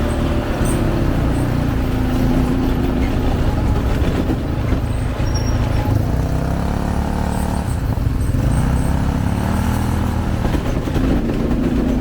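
Engines of ATVs (quad bikes) running, their pitch rising and falling as they rev.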